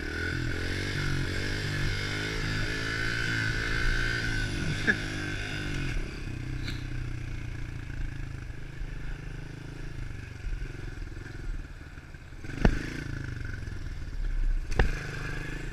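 110cc four-stroke pit bike engine running while being ridden, its pitch rising and falling with the throttle for the first several seconds, then running lower and steadier. Two sharp knocks come near the end.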